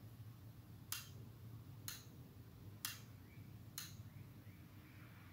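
Latching relay switching on the circuit board, giving faint, sharp clicks about once a second, four times, as the push button toggles it on and off.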